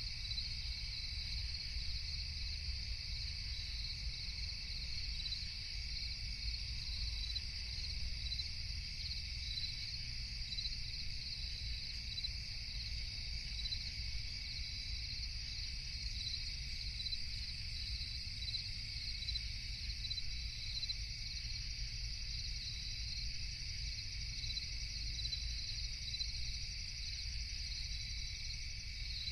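Night chorus of crickets chirping steadily in high, rapidly pulsing trills, over a low steady rumble.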